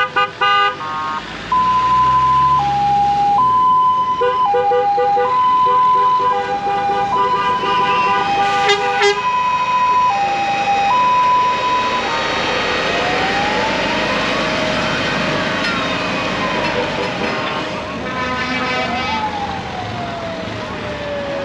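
An emergency-vehicle siren sounds a two-note hi-lo pattern, then about halfway through switches to a rising and falling wail that ends on a long falling sweep. Lorry air horns blast over the first half, some held and some in quick repeated toots.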